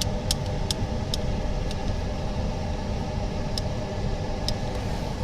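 Steady low mechanical drone of running workshop equipment, with a few light clicks from handling parts.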